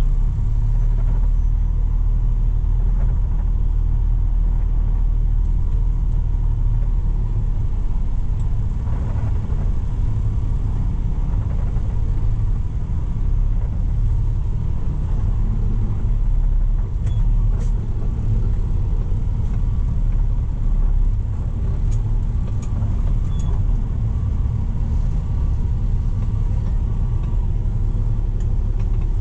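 Heavy-duty tow truck's diesel engine running steadily, a constant low rumble, with a few faint clicks over it.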